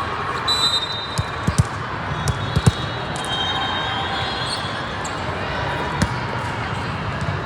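Volleyballs being hit and striking a hard indoor court, a quick run of sharp smacks in the first few seconds and one more about six seconds in, over the steady hubbub of a large sports hall with brief high squeaks.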